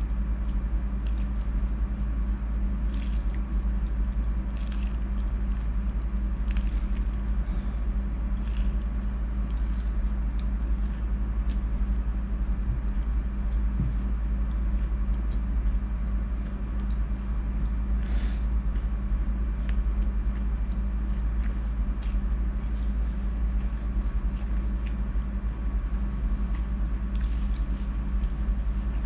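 Chewing a big mouthful of battered squid, with scattered short wet mouth clicks and squishes, over a steady low hum.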